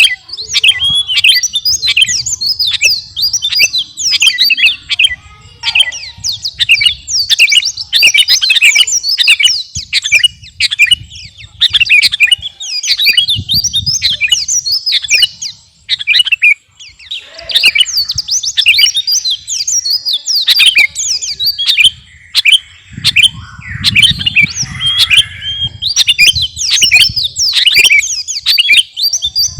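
Sooty-headed bulbul (kutilang) singing vigorously: long runs of fast, bright chirping whistles, broken by a few short pauses. A faint low rumble sits under the song at times.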